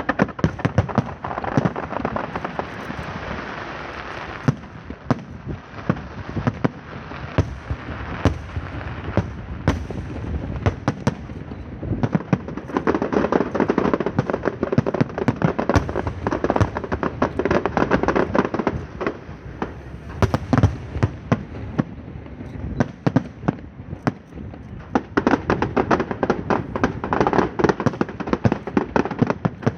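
A dense, nonstop barrage of fireworks and firecrackers: rapid sharp bangs and crackling overlap without a break, starting abruptly and swelling into louder clusters partway through and near the end.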